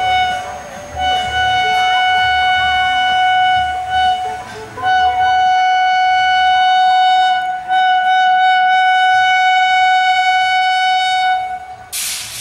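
Locomotive horn blown long, held at one steady pitch with two brief breaks, over the low rumble of a passing train. A short burst of hiss near the end.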